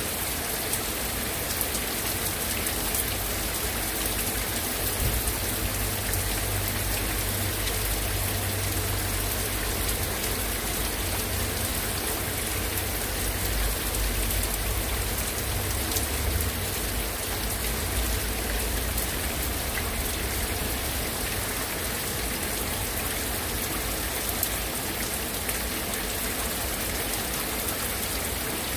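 Heavy rain falling steadily, drops pattering on hard surfaces, with a low rumble for several seconds in the middle.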